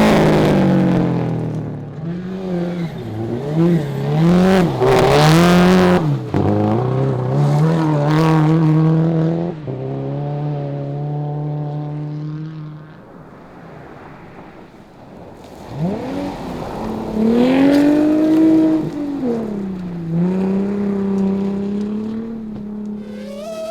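Rally car engines revving hard and shifting up through the gears, the note climbing and dropping with each shift. About two-thirds of the way in the sound falls away for a couple of seconds, then a car comes past with a note that swings up and back down.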